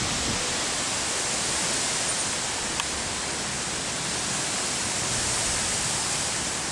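Steady rushing noise of a severe thunderstorm's strong winds and heavy rain, unbroken and even throughout.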